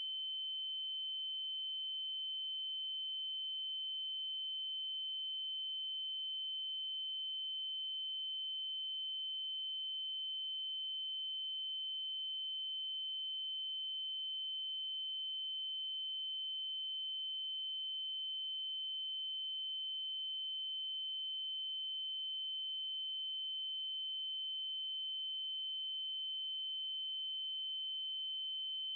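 Synthesized 3072 Hz triangle-wave tone, one steady high-pitched pitch held without change, with faint overtones above it.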